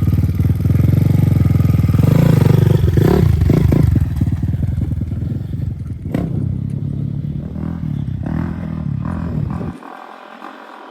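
Dirt bike engine running hard under throttle, loudest in the first four seconds, then carrying on at lower revs. There is one sharp click about six seconds in, and the engine sound drops away abruptly near the end.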